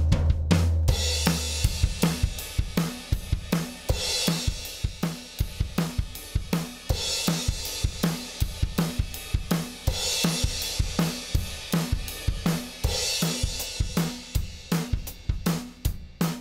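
Drum kit recording playing a steady beat of kick, snare and hi-hat, with a bright cymbal wash about every three seconds, played as audio through a Lindell Audio 17X FET compressor to show its compression.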